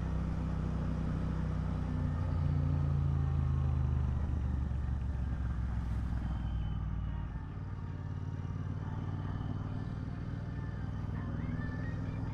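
Royal Enfield Interceptor 650's parallel-twin engine running at a steady cruise, picking up slightly about two seconds in and easing off about seven seconds in.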